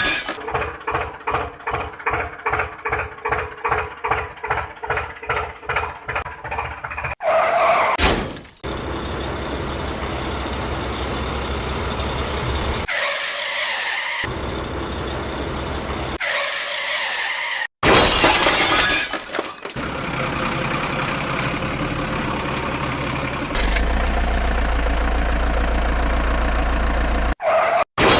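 Cartoon vehicle engine sound effects: a pulsing engine sound, about three beats a second, for the first seven seconds, then a steady running engine sound. Several short, loud crash-like bursts break in along the way.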